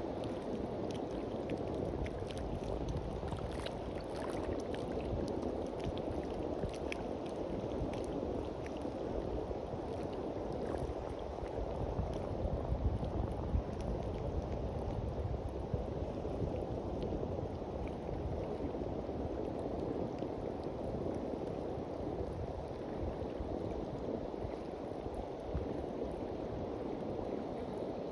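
Gentle surf washing onto a beach in a steady wash, with a faint crackling fizz of water through roughly the first third.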